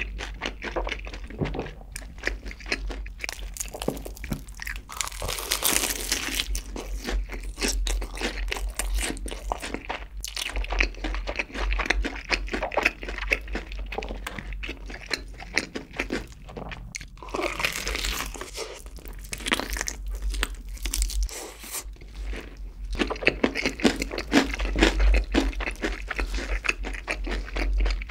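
Close-miked chewing and crunching of crispy fried chicken coated in cheese sauce, a continuous crackle of breading broken between the teeth, with louder crunchy bites now and then.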